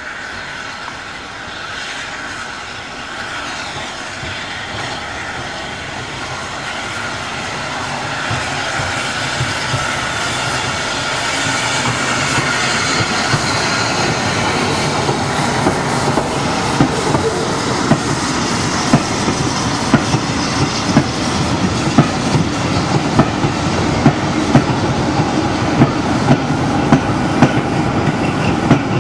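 Steam-hauled train drawing near and growing steadily louder. In the last third its wheels clack sharply and regularly over the rail joints.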